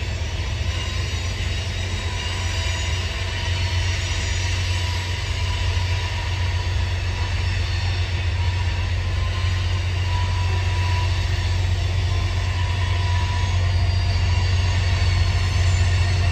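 Freight train of covered hopper cars rolling past, a steady low rumble of wheels on rail with a thin wheel squeal now and then, growing gradually louder.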